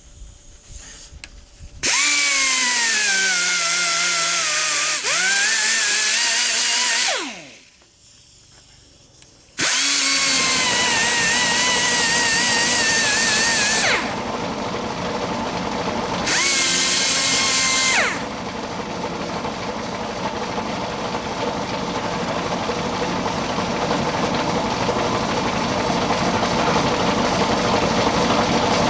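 A power drill whines in three bursts, its pitch dragging down under load as it spins the mixer's old engine over. About halfway through the engine fires and keeps running on its own, a steady rough run that carries on after the drill stops.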